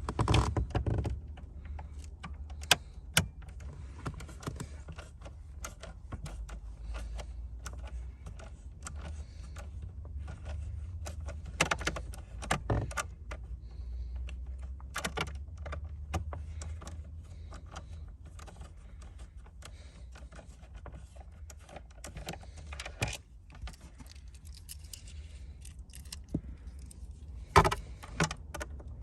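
Scattered small metallic clicks, taps and rattles of hand work on car interior trim: a T20 Torx driver being used on a screw and parts being handled. A steady low hum runs underneath.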